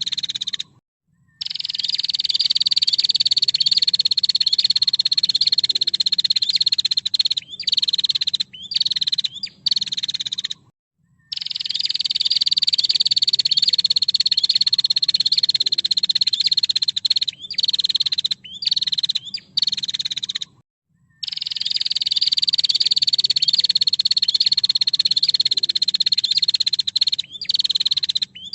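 Female prenjak (prinia) calling: a long, buzzy, high trill lasting about nine seconds, dipping slightly in pitch at its start, followed by several short chattering calls. The same sequence repeats three times, each break cutting to silence abruptly, as in a looped recording. A faint low hum runs underneath.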